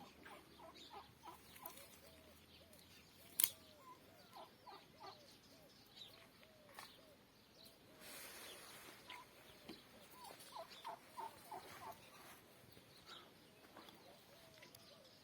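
Faint clucking of chickens: runs of short, repeated calls, with a single sharp click about three and a half seconds in.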